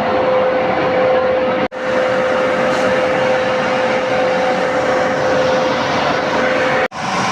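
A power tool cutting steel runs steadily with a hiss and a constant whine. The sound stops abruptly and picks straight up again twice.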